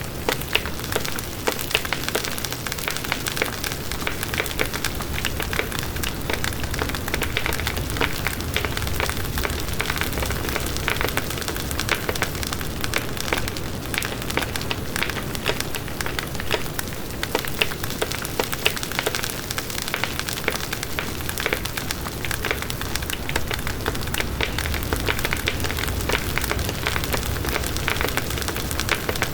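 Logs burning in a fireplace: a steady hiss of the flames with dense, continuous crackling and frequent sharp pops from the firewood.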